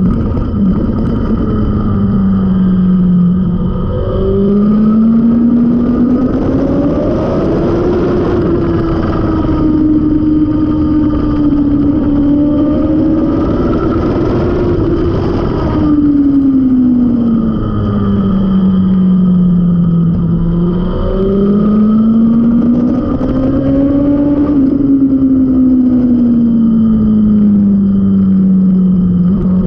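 Suzuki GSX-R750 K5 inline-four through an aftermarket Mivv carbon exhaust, heard from onboard at speed on a race track. The engine note climbs slowly, holds high, drops back about halfway through, then climbs and falls again, over a heavy rush of wind noise.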